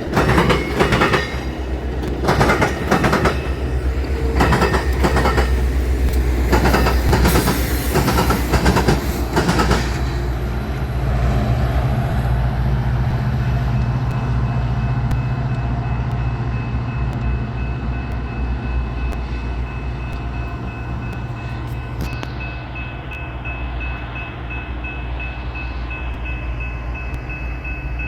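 Train rolling across a railroad diamond, its wheels clacking over the crossing and rail joints for about the first ten seconds. The clacking then stops, leaving a steadier low rumble.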